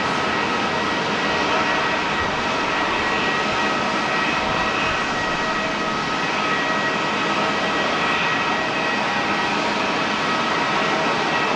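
Airbus A330-300 jet engines running steadily: a constant rush with several high whining tones held at a steady pitch.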